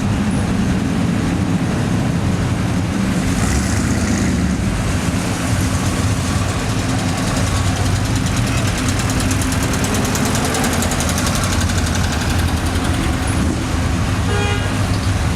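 Engines of classic cars driving past in a parade, with a steady low rumble. A short horn toot sounds near the end.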